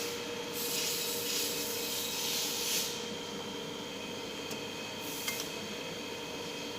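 Light handling noises: a soft rustling scrape for about two seconds, then a couple of small clicks, over a steady electrical hum.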